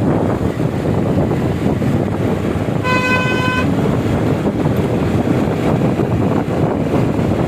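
Steady wind and road noise from riding a motorbike in traffic, with a single short vehicle horn honk, under a second long, about three seconds in.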